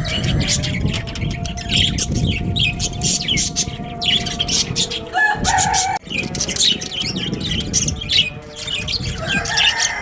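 A flock of budgerigars chattering, with many quick, high chirps throughout over a low rumble. A brief louder, lower call sounds about five seconds in.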